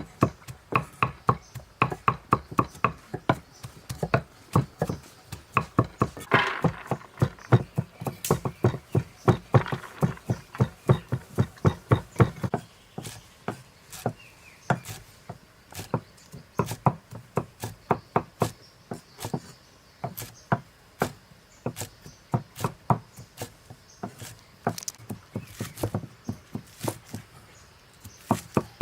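Knife chopping food on a cutting board: a steady run of sharp knocks, about two to three a second.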